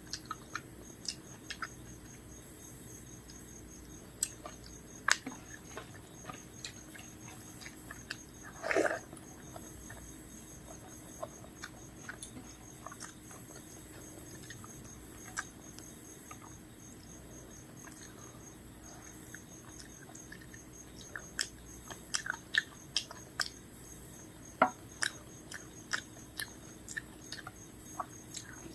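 Close-miked chewing and eating sounds: scattered short wet clicks and crunches, coming thicker in the last several seconds. About nine seconds in there is one louder, half-second sound.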